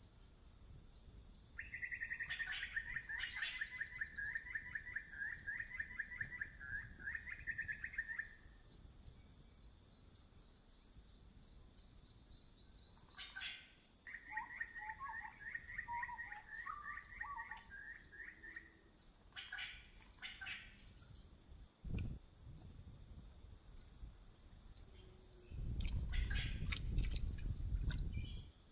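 Birds calling: two long, rapid trills, one about 2 seconds in and one in the middle, over a high, regular chirping that repeats about three times a second. A low rumble comes near the end.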